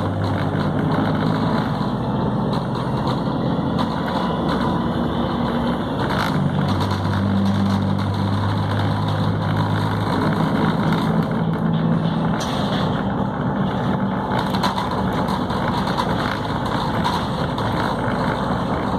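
Volvo B7RLE city bus's six-cylinder diesel engine running under way with a Voith automatic gearbox, heard from inside the bus. The engine note holds steady, then changes pitch about six seconds in and again about ten seconds in.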